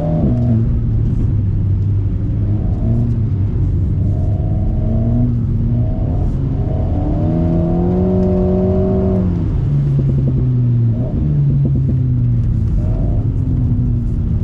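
Alpine A110's 1.8-litre turbocharged four-cylinder through a BDA Racing Track Evo stainless exhaust, heard from inside the car, revving up and down as it is driven hard through the gears. About seven seconds in the revs climb for a couple of seconds, then drop sharply, followed by a brief crackle.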